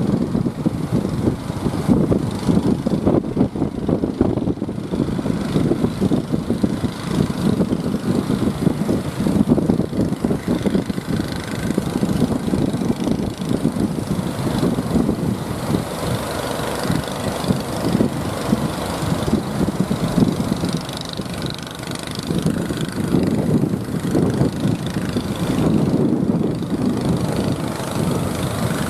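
Engines of motorised fishing boats running, a steady rumble that swells and fades, with strong wind buffeting the microphone.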